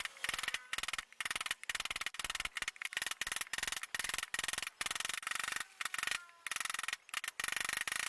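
Quick, repeated strokes of a hand tool working wood, each stroke a short rasping burst, about two or three a second with brief gaps between.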